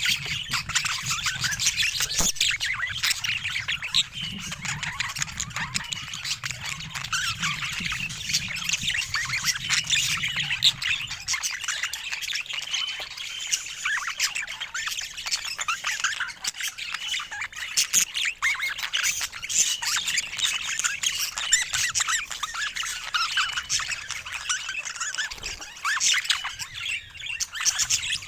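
A group of budgerigars chattering: a dense, unbroken mix of squawks, chirps and warbling.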